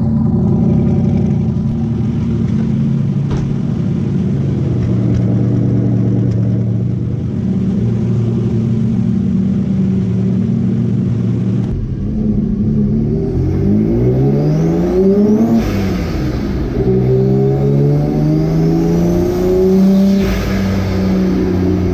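Twin-engine, twin-turbo Mazda MX-3 running steadily at first, then about twelve seconds in revving up under acceleration: its pitch climbs, drops at a gear change, and climbs again.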